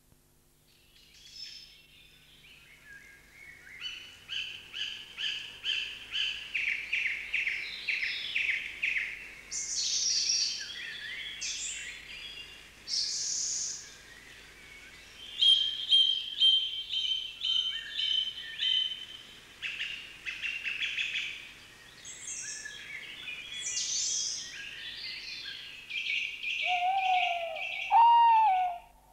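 Birdsong: a varied song of rapidly repeated notes, short trills and whistled phrases, changing every second or two. Near the end, lower calls that glide upward in pitch come in loudest.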